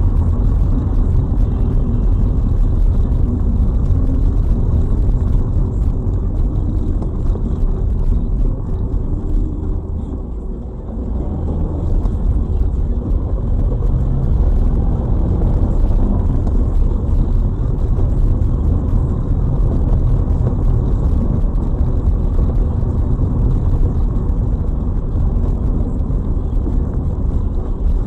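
A car driving, with steady low engine and road rumble heard from inside the cabin. It dips briefly about ten seconds in.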